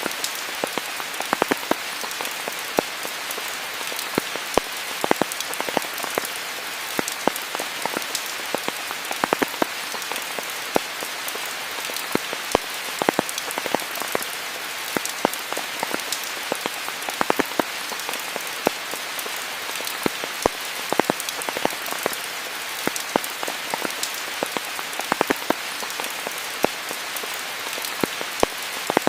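Steady rain falling, an even hiss with many close, individual drops pattering on leaves and surfaces.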